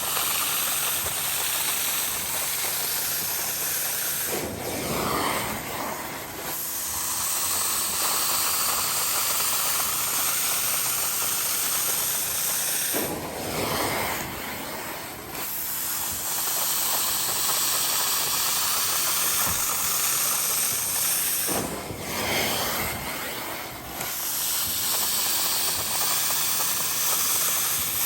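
Cleaning extractor's vacuum hissing through an upholstery tool: a loud steady hiss that three times, about eight seconds apart, dips and turns lower for a couple of seconds.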